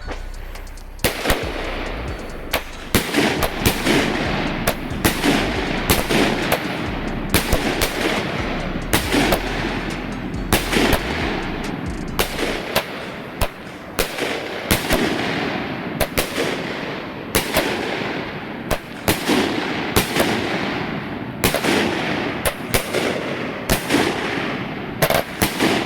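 Firecrackers going off in a long irregular run of sharp bangs, roughly one or two a second, with a steady noisy hiss between them.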